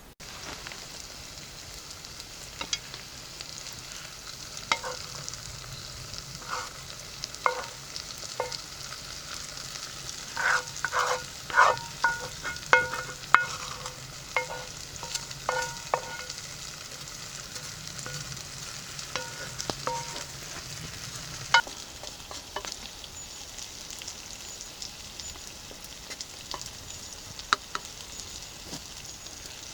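Plov ingredients sizzling as they fry in oil in a pot, stirred with a metal utensil that knocks and scrapes against the pot; each knock rings briefly, with the knocks thickest around the middle.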